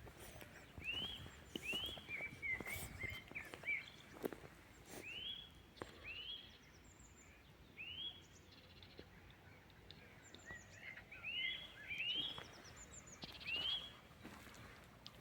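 Songbirds singing: a series of short whistled notes, each sweeping up and dropping back, repeated every half second to a second, with thin high chirps from other birds in between. A few brief clicks and rustles sound in the background.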